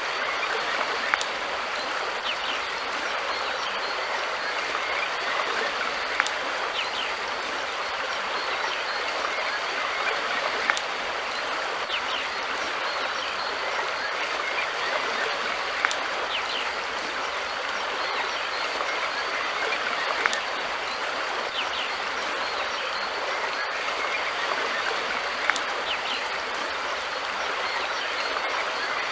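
River water flowing steadily over rocks, a continuous rushing and babbling, with a few sharp clicks every several seconds.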